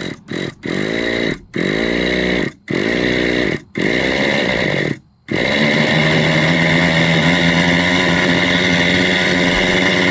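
Nitro RC helicopter glow engine being cranked over in about six short bursts, each spinning up in pitch, until it catches about five seconds in and then runs steadily.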